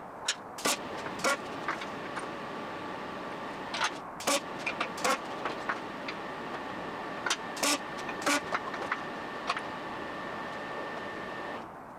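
Irregular sharp knocks and clicks, some fifteen of them at uneven spacing, over a steady hum with two faint high tones, typical of work on steel in a fabrication workshop.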